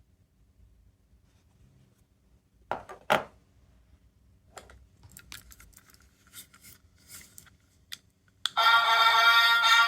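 Small plastic toys being handled, with two sharp clicks and then light clicking and rattling. About 8.5 seconds in, an electronic capsule sound toy starts playing a loud synthesized tune.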